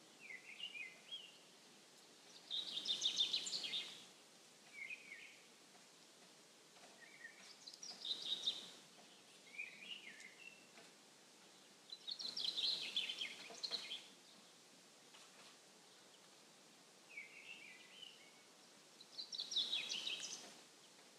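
Small birds singing: short twittering phrases repeating every few seconds, over a faint steady hiss. The loudest phrases are higher-pitched and last about a second and a half; shorter, lower phrases come between them.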